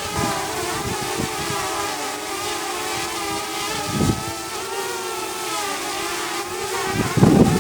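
DJI drone's motors and propellers running in a steady whine while hovering in strong, gusty wind, the pitch wavering as the motors work to hold position. Wind buffets the microphone with low rumbles, a short gust about four seconds in and a stronger one near the end.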